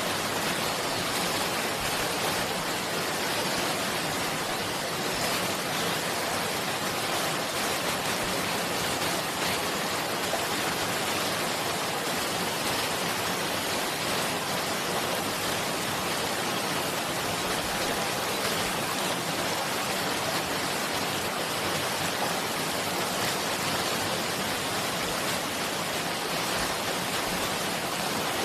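Running water making a steady, even rushing sound, with no single drops or splashes standing out.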